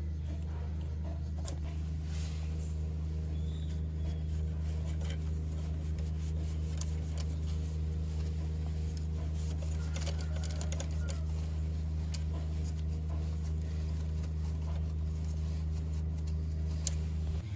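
A steady low machine hum at an even level, with a few light clicks over it.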